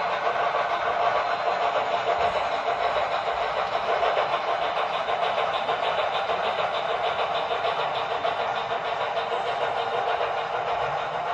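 Sound decoders in HO-scale Santa Fe steam locomotive models playing running steam-locomotive sound through small onboard speakers, a steady fast rhythm, with the model train rolling on the track.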